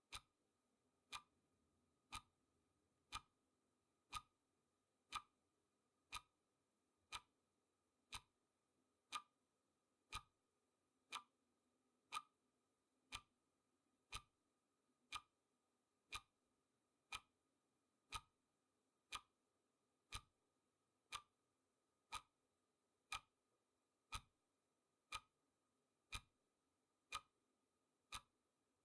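Clock ticking sound effect for a countdown timer: one sharp, steady tick every second.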